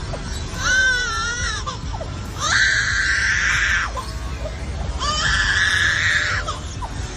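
A series of drawn-out, high wailing calls, about one every two and a half seconds. Each rises in pitch and then holds steady; the second wavers up and down. A low rumble runs underneath.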